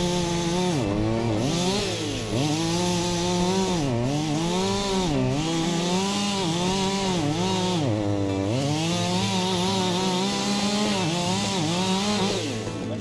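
Chainsaw cutting through a dead cherry trunk: the engine pitch sags again and again as the chain bites into the wood, then climbs back as it frees up. The revs drop near the end.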